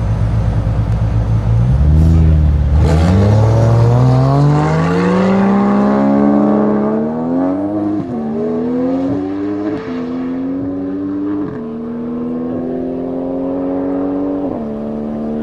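McLaren 720S's twin-turbo V8 with a Capristo exhaust going to full throttle from a rolling start after a couple of seconds at steady speed. The engine note climbs through the revs, with four sharp drops in pitch at the upshifts, and grows fainter as the car pulls away.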